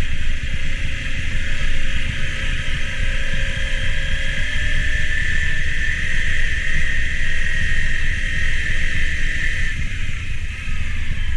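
Motorcycle engine running under load on a rough trail, held at about 5,000 rpm, with a dense uneven rumble. A steady high-pitched drone sits over it and fades out near the end.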